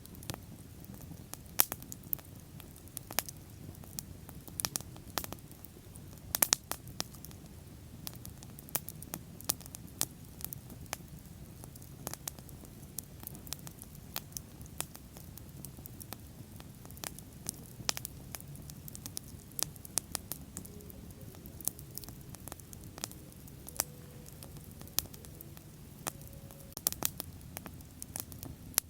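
Wood fire burning, with irregular sharp crackles and pops over a steady low rumble of flame.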